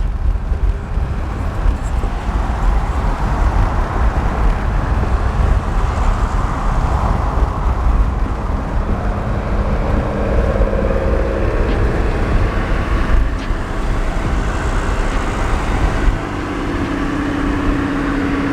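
Car on the move: a steady, heavy low rumble of engine and road noise, with a faint steady tone joining about ten seconds in and the rumble easing near the end.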